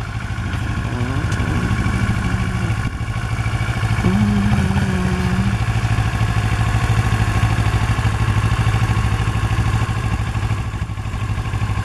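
Kawasaki Ninja 650R's parallel-twin engine idling steadily, with no throttle given.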